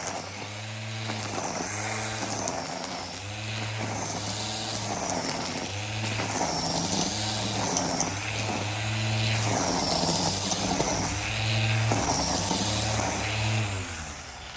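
Black & Decker 18V cordless string trimmer's electric motor running, its whine dipping and recovering again and again, about once a second, as the spinning nylon line bites into grass. It dies away near the end.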